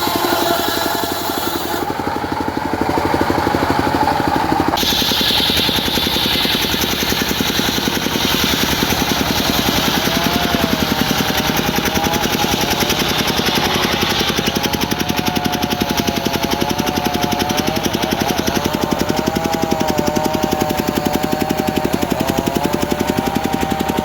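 A diesel engine drives a circular saw as the blade cuts teak, with a steady, rapid engine pulse underneath. From about ten seconds in, the blade's whine wavers up and down in pitch.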